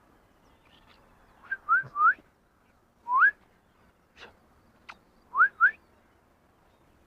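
A person whistling short rising notes to call a dog, in three groups: three quick whistles, then one, then two.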